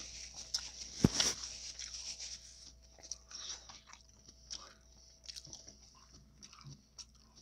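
Close-miked bite into a taco, with a loud crunch about a second in, followed by chewing with scattered small crackling clicks.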